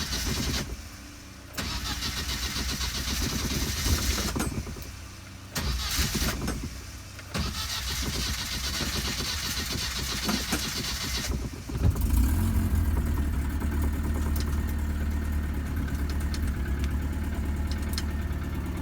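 A 1998 Isuzu Amigo's swapped-in engine is cranked on the starter several times in short stretches. About twelve seconds in it catches and settles into a steady idle. This is the engine's first start after the swap and rebuild.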